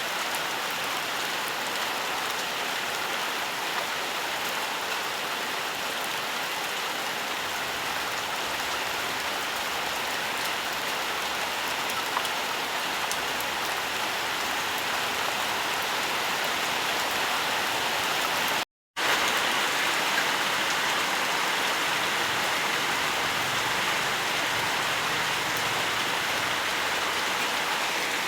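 Steady, even rainfall hissing without a break, cut off completely for about a third of a second roughly two-thirds of the way through, then resuming slightly louder.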